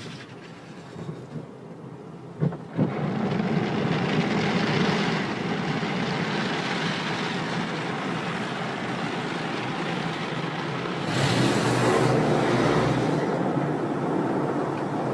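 Automatic car wash running: a steady rushing noise that starts after two sharp knocks about two and a half seconds in, swelling louder and hissier for a couple of seconds near the end.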